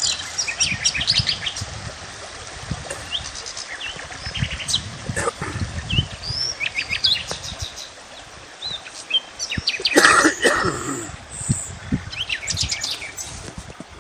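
Several birds chirping and trilling, short rapid trills and rising chirps overlapping, with one louder call about ten seconds in.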